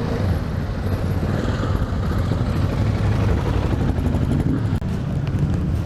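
A motorcycle engine running steadily close by, a continuous low rumble.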